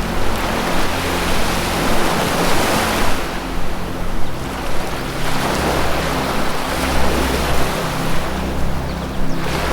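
Ocean waves washing ashore, two swells of surf rising and falling, over low sustained synthesized music tones that change pitch a couple of times.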